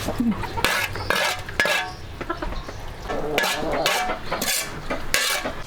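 Kitchen utensils scraping and clinking against cookware in about six short, irregular strokes, as when stirring or scooping food.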